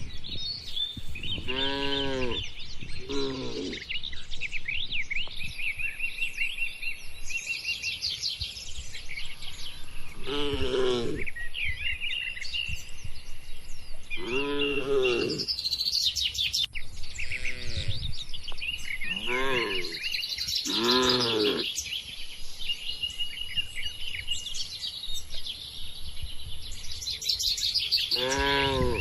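Cattle mooing in short calls, about seven times, over the steady chirping of many small birds. A thin, steady high-pitched whine comes in about five seconds in and holds.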